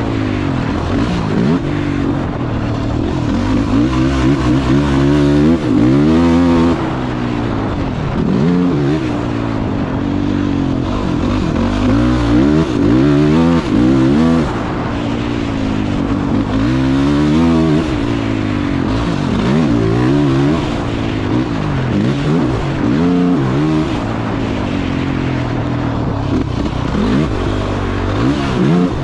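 Dirt bike engine on a motocross track, revving up and falling back over and over as the rider works the throttle and shifts, its pitch climbing and dropping every second or two.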